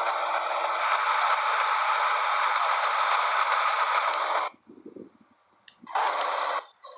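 Radio static: a loud, steady hiss that cuts off abruptly about four and a half seconds in, then returns in one short burst of about half a second near the end.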